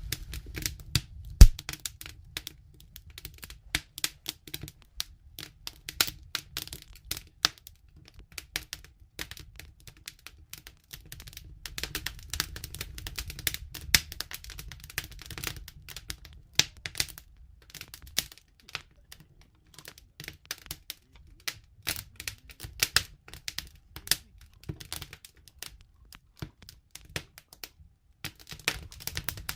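Wood fire crackling and popping: many irregular sharp pops over a low steady rumble, with one much louder pop about a second and a half in.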